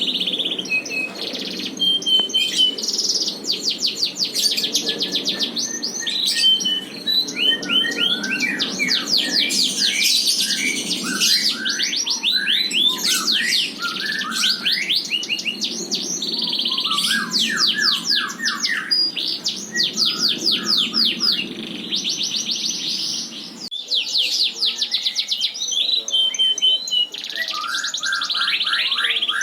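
F1 Yorkshire canary singing a long, continuous song of rapid trills and rolls broken by short whistled notes and quick downward glides, loud and clear.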